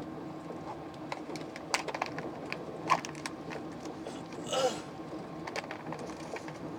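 Steady hum inside a moving train carriage, with scattered light clicks and knocks and a brief higher squeak about four and a half seconds in.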